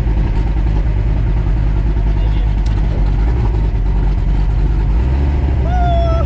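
Drag-racing car engine running steadily at low speed close by, a loud, even low rumble that shifts slightly in pitch about five seconds in.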